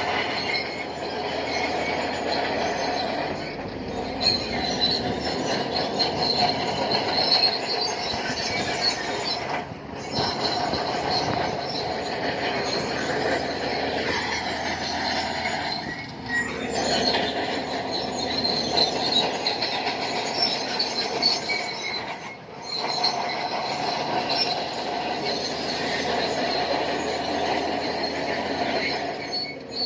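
Shantui crawler bulldozer on the move: its steel tracks squeal steadily over the diesel engine's running, with brief dips about every six seconds.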